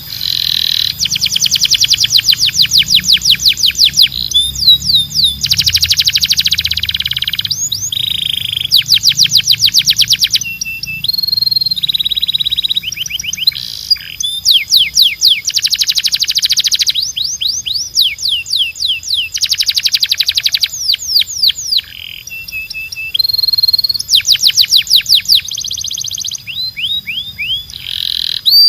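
Domestic canary singing a continuous song of rapid trills: runs of fast repeated notes that change to a new phrase every second or two, with a few held and gliding whistled notes in between.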